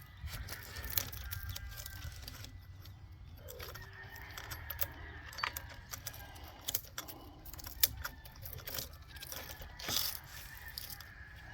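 Chainsaw chain and bar being handled: scattered light metallic clinks and chain rattle as the chain is fitted around the bar and its drive sprocket, over a steady low rumble.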